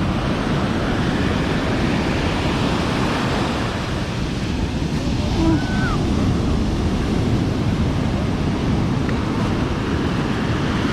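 Ocean surf breaking and washing on a sandy beach, a steady rushing noise, with wind buffeting the microphone.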